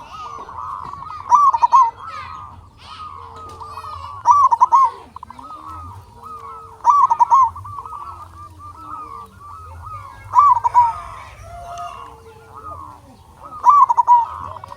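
Zebra dove (perkutut) cooing: a loud phrase of quick rolling coos about every three seconds, five in all, over softer cooing in between.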